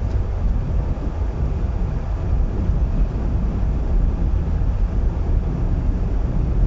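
Steady low rumble of a car on the move: road and engine noise, with some wind buffeting on the microphone.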